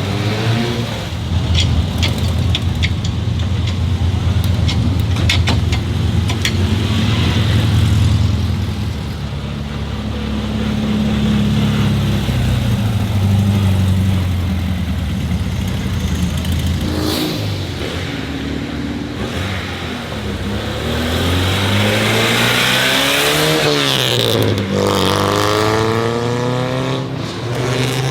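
Old car engine running, then revved up and down several times in the second half, its pitch rising and falling with each rev.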